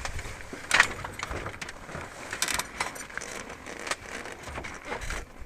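Gusty wind rumbling on the microphone, with irregular knocks and rattles of handling; one sharp knock about a second in.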